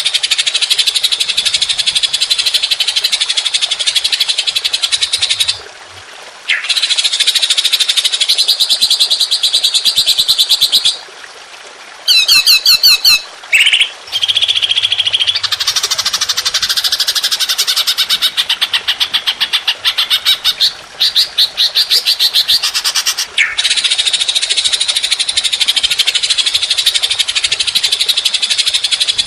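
A songbird singing long, very fast, pulsing trills, with brief breaks about 6, 11 and 23 seconds in. Around 12 to 14 seconds it gives a few quick sweeping notes instead.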